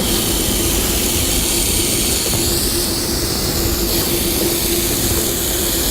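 Ham sizzling on a portable stove: a steady hiss that starts abruptly, with a faint steady hum under it.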